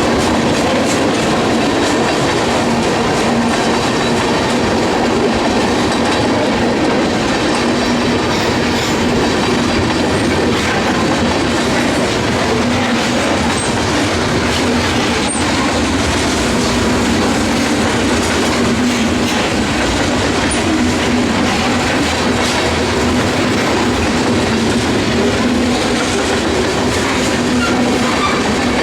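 Freight train cars rolling past at close range: a continuous rumble of steel wheels on rail with clacking over the rail joints and a steady hum running through it.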